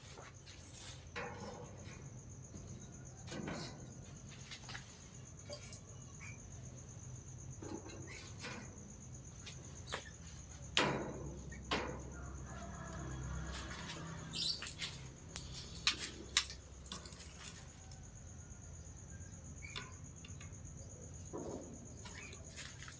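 Birds moving about in an open enclosure: scattered short chirps and wing flaps, over a steady high insect-like drone.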